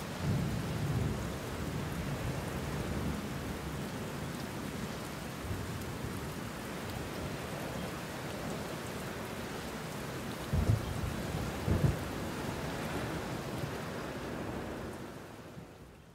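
Steady hiss of rain, with low rumbling near the start and two short dull thumps about two-thirds of the way through; it fades out near the end.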